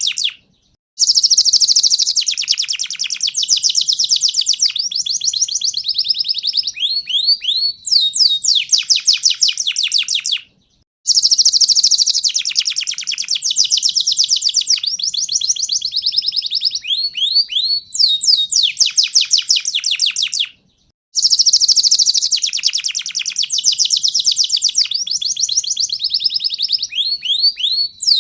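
Domestic canary singing long bouts of fast, rapidly repeated trilled notes, each bout ending in a run of short downward-sweeping notes. The same bout of about ten seconds comes three times, with a brief silence before each.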